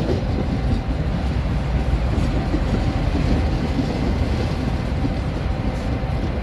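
Train running past on the rails: a steady, loud rumble of wheels and cars with a steady hum.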